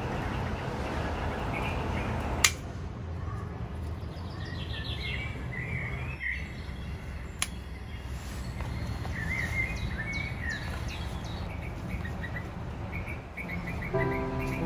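Small birds chirping in short calls over a steady background noise, after a rushing noise that stops with a sharp click about two and a half seconds in. Music with held notes comes in near the end.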